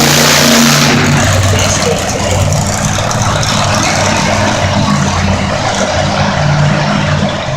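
Monster truck engine running loud, its low note wavering as the throttle shifts. A loud rush of noise in the first second dies away.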